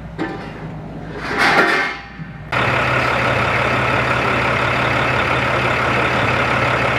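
A large engine running steadily with a constant low hum, cutting in abruptly about two and a half seconds in after a stretch of faint voices.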